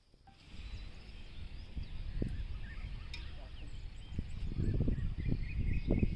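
Birds chirping over an uneven low rumble that grows louder in the second half.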